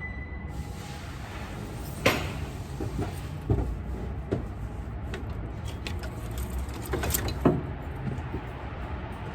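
Scattered sharp metallic knocks and clanks of tools and engine parts being handled while the power steering pump and its bracket are taken off the engine, about five in all, the strongest about two seconds in and near the end, over a steady low rumble.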